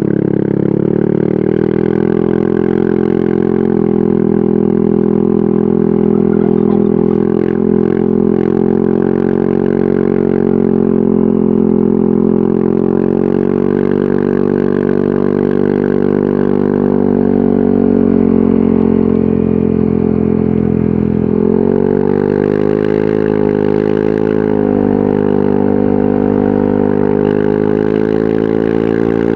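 Yamaha NMAX 155 scooter's single-cylinder four-stroke engine running through an aftermarket VMAX Onyx muffler at steady revs. About twenty seconds in, the pitch steps up and then wavers slightly as the revs change.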